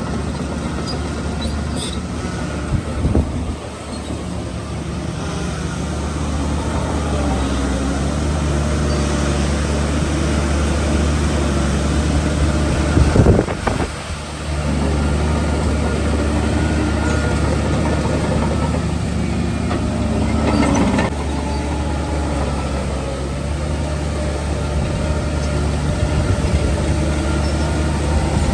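Heavy diesel engine of construction machinery running steadily under load, a low hum that shifts in pitch now and then. There is a brief louder surge about thirteen seconds in, followed by a short drop.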